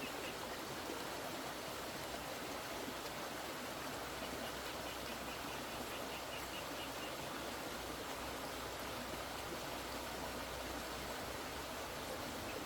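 Steady rushing of flowing water, an even noise with no breaks. Faint high chirps in short, evenly spaced pulses come through for a few seconds in the middle and again near the end.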